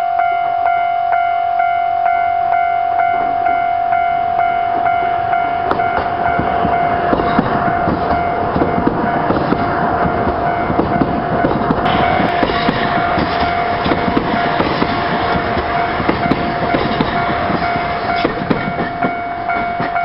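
Free Gauge Train, a gauge-convertible electric test train, passing close by, its wheels clattering and rumbling over the rail joints and the noise building as it nears. Under it a level crossing warning bell rings steadily in a repeating pattern.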